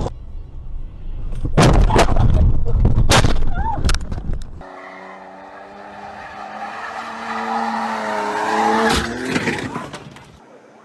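Car noise from dashcam footage: first a loud low rumble broken by several sharp knocks, then an engine running with a steady pitched tone that slowly rises.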